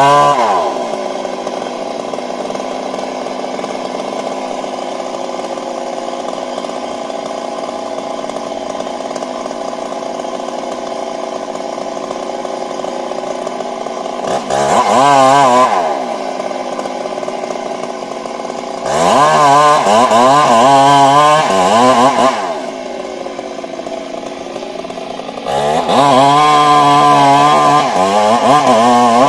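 Stihl MS 382 two-stroke chainsaw idling, then revved to high speed three times, the last and longest spells with a wavering pitch. Between the spells it drops back to a steady idle.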